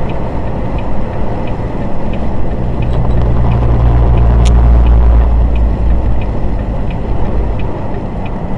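Engine and road noise inside a moving truck's cab: a steady low rumble that swells in the middle, with faint regular ticking about twice a second and a single sharp click midway.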